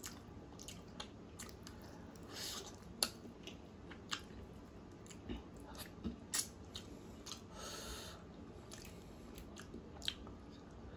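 A person chewing and biting into pieces of Changezi chicken in curry gravy, eaten by hand close to the microphone, with short sharp mouth clicks scattered irregularly.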